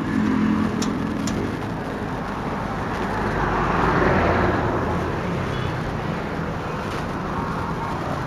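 Motorcycle riding noise through the helmet-mounted action camera's microphone: steady road and traffic noise with the engine's hum, swelling about four seconds in and easing off again. Two light clicks come about a second in.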